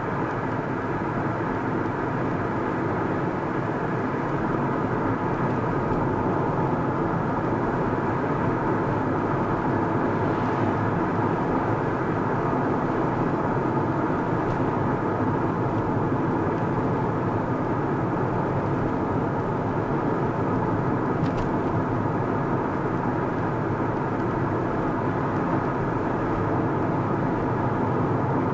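A car driving along at steady speed: a constant rush of tyre, road and engine noise.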